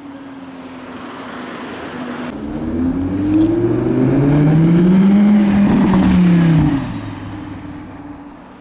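Audi R8 V10 engine accelerating past: its note climbs in pitch for a few seconds, is loudest just past the middle, then drops in pitch and fades away as the car goes by.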